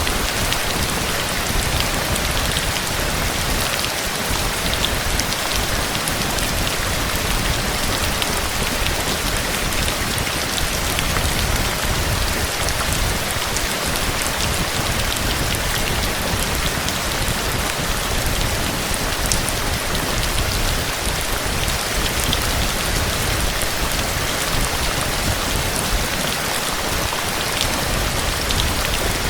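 Steady heavy rain falling, with fine patter of drops on a surface.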